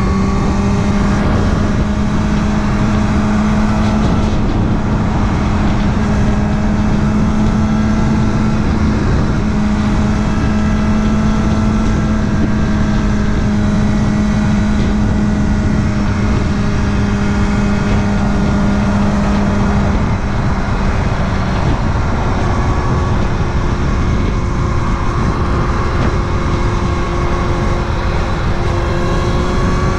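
Kawasaki ZX-6R inline-four sport-bike engine running under load at a steady pitch while riding, over a constant rush of wind noise. About twenty seconds in, the engine note shifts.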